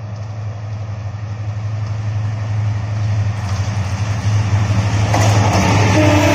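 Diesel locomotive of a metre-gauge express train approaching and passing: a steady low engine hum that grows louder, joined about five seconds in by the rush of the train going by and, near the end, a steady higher tone.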